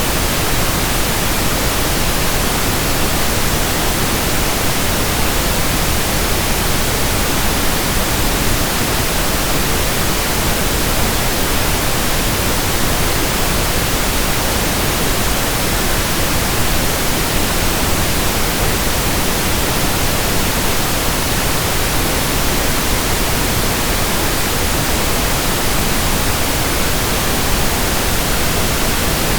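Steady pink noise: an even, unbroken hiss spread from low to high pitches, with no rhythm or change.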